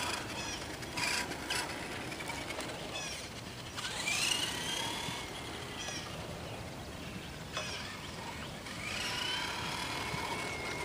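Electric motor and drivetrain of an ECX Torment 2WD radio-controlled short course truck whining, rising and falling in pitch twice as the truck speeds up and slows down on its passes, with a few sharp clicks.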